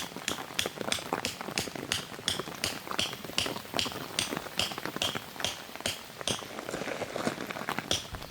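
Footsteps crunching on frozen ground at an even pace, about three steps a second, each step a sharp crisp crunch.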